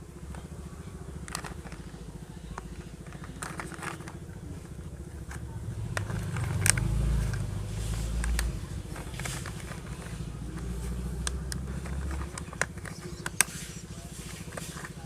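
Plastic toy bus parts being handled and pressed together: scattered clicks and taps over a low rumble that swells from about six to eight and a half seconds in.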